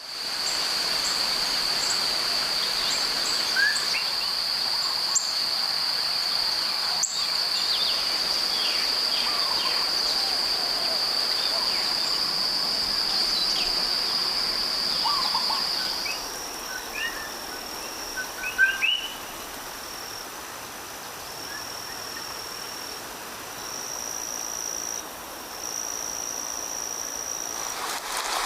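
Tropical forest dawn chorus: a steady high-pitched insect trill with many short bird chirps and calls scattered over it. About halfway through the trill gives way to a quieter, higher insect tone that comes and goes, with a brief burst of louder chirps soon after.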